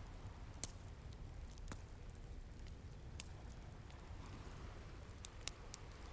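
Wood fire crackling with a handful of sharp, separate pops over a low steady rumble of ocean surf, with a wave wash swelling near the end.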